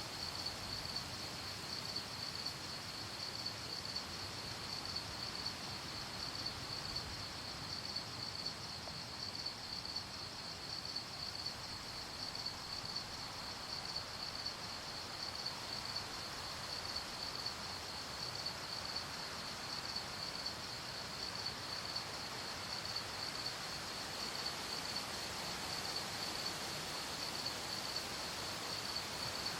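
Crickets chirping in a steady, even pulsing rhythm over a soft background hiss of night ambience.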